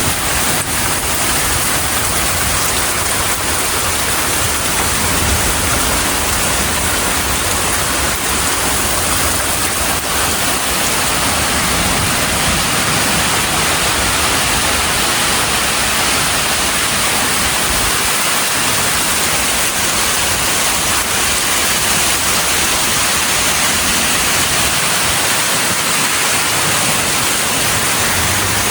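Heavy rain pouring down steadily in a severe thunderstorm, an even loud hiss with no breaks.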